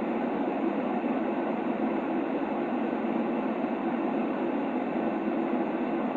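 Baby-sleep white noise track: a steady, even rushing noise without variation, weighted toward the lower middle with little deep bass.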